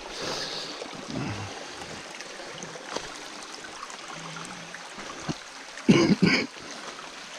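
Stream water running steadily, with two short, louder sounds about six seconds in.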